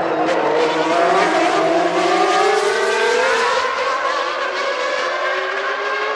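Formula One car's naturally aspirated 3.5-litre racing engine at high revs. The pitch climbs smoothly over the first three seconds, eases off, then rises again near the end.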